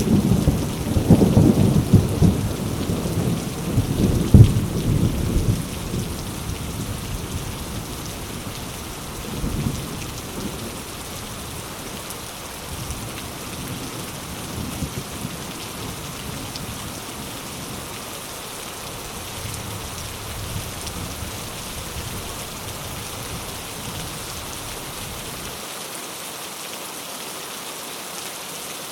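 Heavy rain falling on mango leaves, a steady hiss of drops. A deep roll of thunder rumbles in the first few seconds and fades away.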